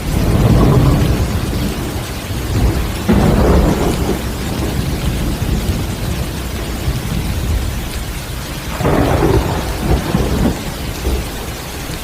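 Heavy rain falling steadily, with thunder rumbling in rolls that swell at the start, about three seconds in, and twice more near the end.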